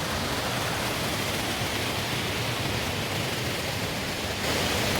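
Waterfall: falling water making a steady rushing roar, a little louder about four and a half seconds in.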